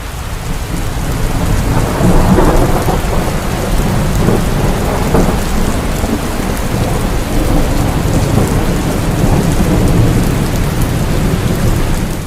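Heavy, steady rain with a long roll of thunder that swells about two seconds in and keeps rumbling.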